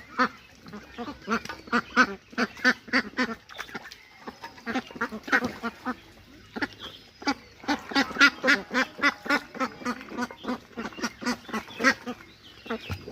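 Ducklings quacking in rapid short calls, several a second, with a few faint high peeps, as they feed.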